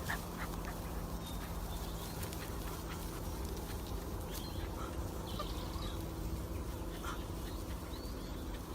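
Scattered faint short calls from an animal over a steady low hum.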